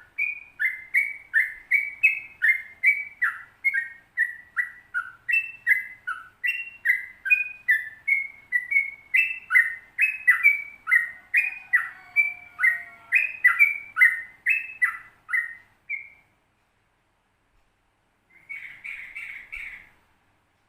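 Yellow-vented bulbul (trucukan) singing a long, rapid 'ropel' song: an unbroken string of short, downward-slurred whistled notes, about two to three a second, that stops about 16 seconds in. After a pause, a short burst of notes follows near the end.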